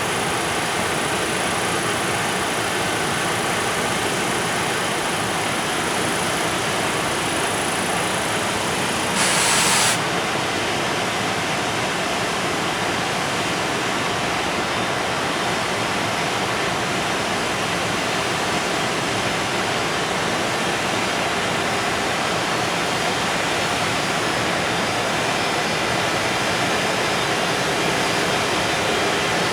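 Freight train's container wagons rolling past on the rails, a steady even rushing noise of wheels and wagons, with a brief louder burst about nine seconds in.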